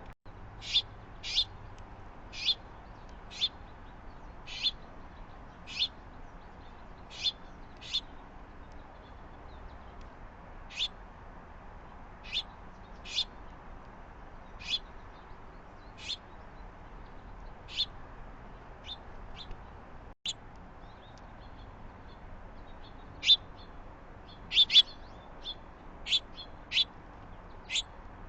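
Small birds chirping: short, sharp single chirps repeated at irregular intervals, some in quick pairs, over a steady background hiss.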